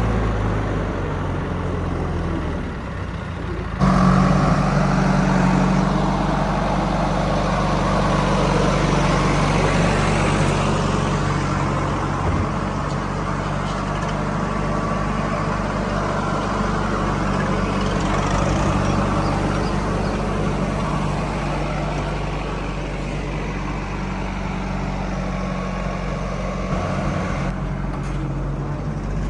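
Heavy diesel machinery engine running steadily, with a sudden jump in loudness and change in engine note about four seconds in and another shift near the end.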